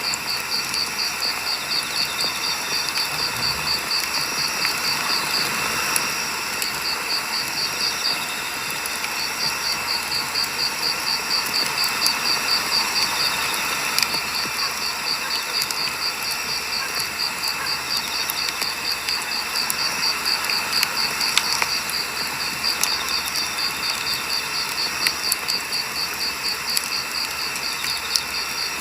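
Firewood burning in a campfire: a steady hiss with a few sharp crackling pops. Over it an insect trills in a high, steady run of pulses that breaks off briefly a few times.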